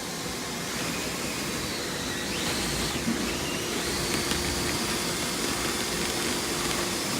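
Dryer vent cleaning equipment running: the rotary brush and auger working through the vent duct with a steady rushing noise and a faint steady hum.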